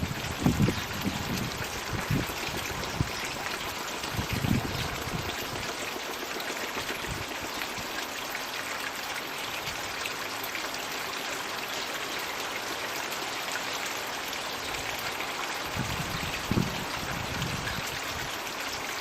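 Floating 'magic bucket' pond water feature running: a steady stream of water pouring and trickling into the pond. A few short low rumbles come near the start, about four seconds in, and near the end.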